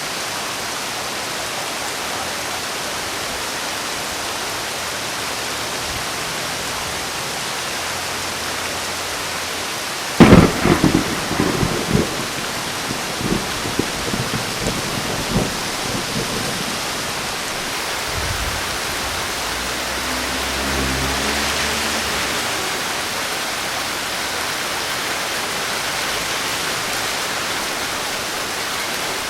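Steady rain with a thunderclap: a sudden loud crack about ten seconds in, crackling for several seconds, then a low rolling rumble a few seconds later while the rain goes on.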